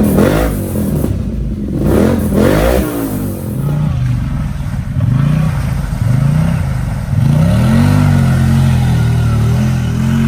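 Kawasaki Brute Force ATV's V-twin engine running through a custom exhaust. It is revved twice in quick blips in the first three seconds, then runs steadier, and the revs climb about two-thirds of the way through and hold.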